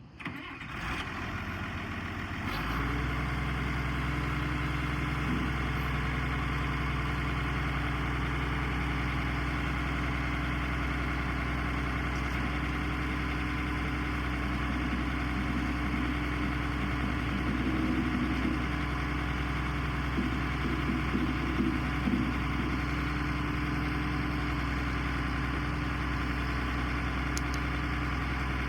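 Case 2294 tractor's diesel engine catching about two and a half seconds in, after a brief uneven start, then idling steadily.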